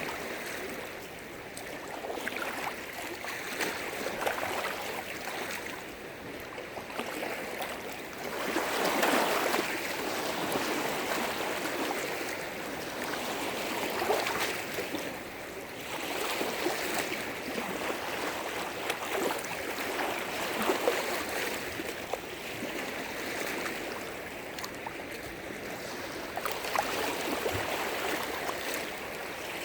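Small lake waves breaking and splashing against the shore, a continuous wash that swells and falls back every few seconds, with a louder surge about a third of the way in.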